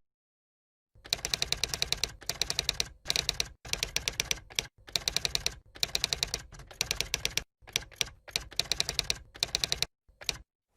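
Zebra dove (perkutut) cooing in a string of short phrases: about a dozen quick rattling bursts, each about half a second long, with short silent gaps between them.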